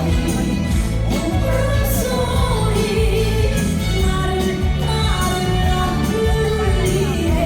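A woman singing live over an amplified backing track, her melody line wavering with vibrato above a steady, heavy bass.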